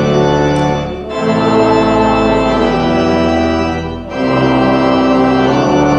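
Church organ playing a postlude of full, sustained chords over a bass line, with short breaths between phrases about a second in and again about four seconds in.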